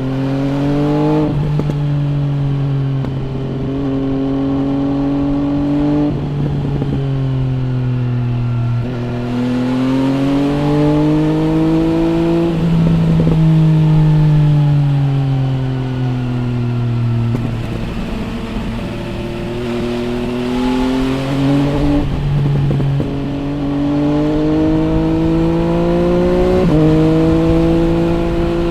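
MV Agusta Brutale 800 RR's three-cylinder engine through an MV Agusta Corse trio exhaust, heard from the bike while riding. The revs climb and fall by turns over several seconds, and the pitch jumps abruptly a few times, about a second in, past twenty seconds and near the end, as gears change.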